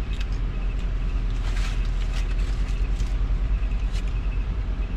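Steady low rumble of a vehicle engine running, heard from inside the cab, with a few small clicks and rustles over it.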